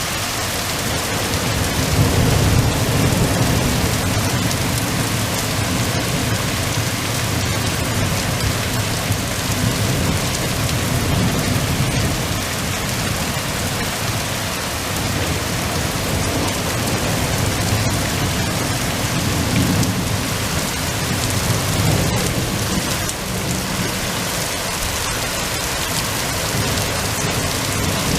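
Heavy thunderstorm rain hissing steadily, with rolling thunder rumbling low three times: about two seconds in, around the middle, and again past two-thirds of the way.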